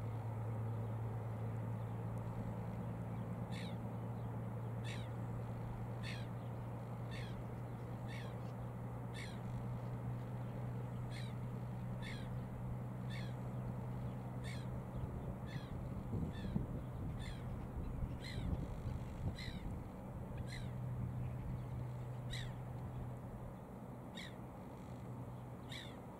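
A bird calling over and over: short calls, each falling quickly in pitch, about one a second, starting a few seconds in. A steady low hum runs underneath.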